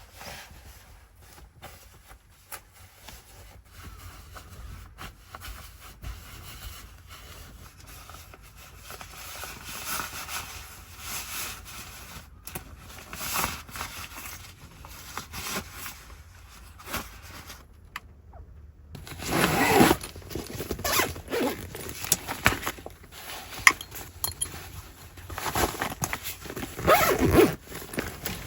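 Handling noises: zips and scrapes in irregular strokes, louder in the second half.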